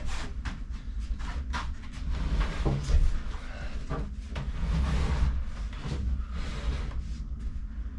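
Large plywood kitchen cabinet being shoved and manoeuvred into a corner, with repeated scraping and wooden knocks; the loudest knock comes about three seconds in.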